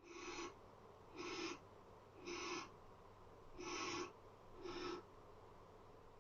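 Barn owl giving a run of rasping, hissing snore calls, five in all about a second apart, each lasting about half a second.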